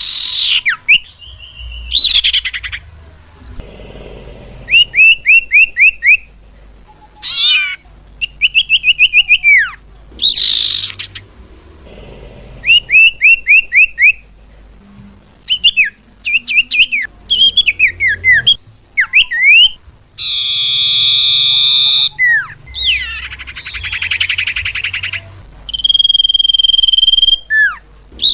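Cipau bird calls used as a lure sound: bouts of fast repeated chirps, about eight notes a second, alternating with sharp falling whistles, and a harsh buzzy call about two-thirds of the way in.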